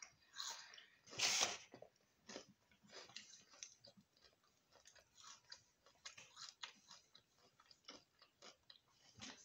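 Children chewing chips and chicken: faint, scattered clicks and smacks of eating, with one louder noise about a second in.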